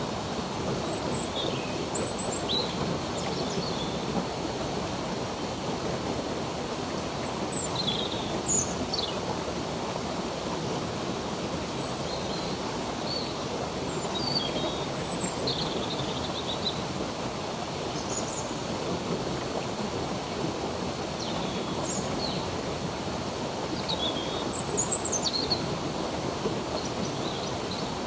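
Steady rush of a flowing stream, with small birds chirping in short high calls and whistles scattered throughout.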